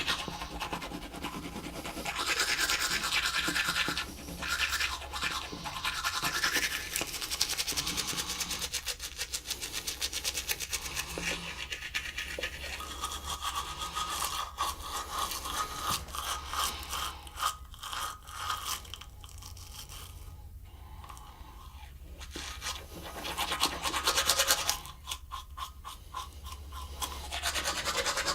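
A toothbrush scrubbing teeth in rapid back-and-forth strokes, louder in some stretches and easing off for a few seconds a little past the middle.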